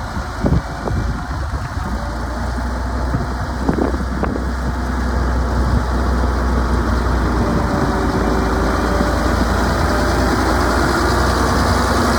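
Diesel engine of a 1993 Cat Challenger 65C tracked tractor running at idle, a steady low drone that grows a little louder over the first few seconds.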